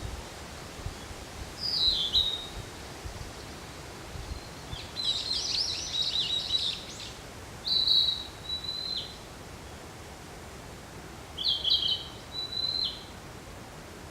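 Male Narcissus flycatcher singing: four short song phrases of clear whistled notes separated by pauses of a second or two, the second phrase a longer, busier run of rapid notes.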